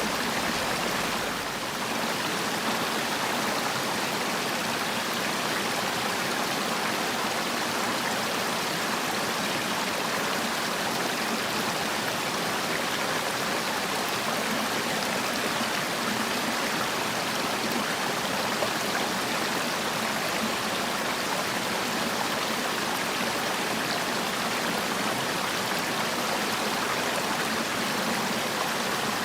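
Mountain valley stream, water rushing steadily with an even hiss, barely dipping about a second in.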